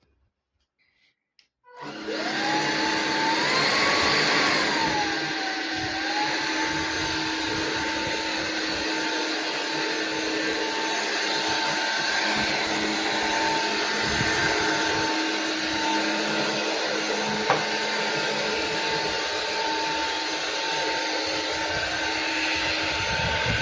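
Sulean X8 cordless stick vacuum switched on about two seconds in: the motor whine climbs, swells briefly, then settles into a steady high-pitched run with airflow noise.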